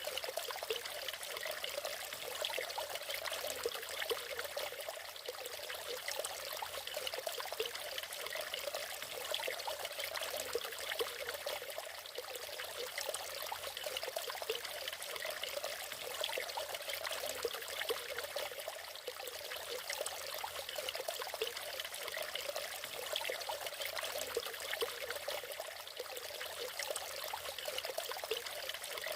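Natural waterfall: water pouring and splashing steadily, a light, splashy sound with little low rumble.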